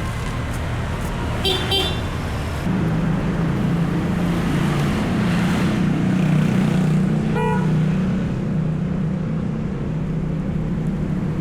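Road traffic with vehicle engines running and two short horn toots, about a second and a half in and again near the middle; a louder engine hum comes in about three seconds in.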